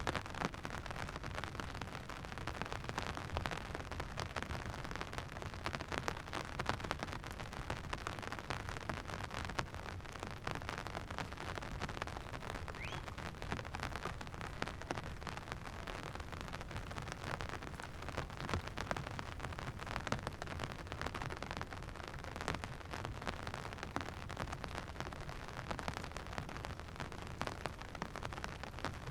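Steady rain falling, with many small drop impacts pattering throughout.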